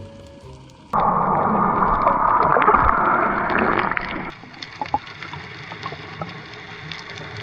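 Water sound: a loud rush of water or bubbles starts about a second in and lasts about three seconds. It drops to a quieter water ambience with scattered faint clicks.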